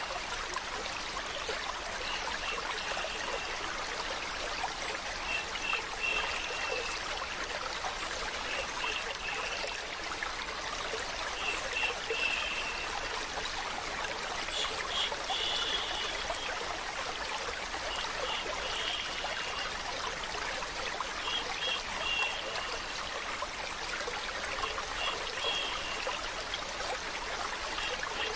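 Steady running water of a stream, trickling without a break, with short high chirps every couple of seconds.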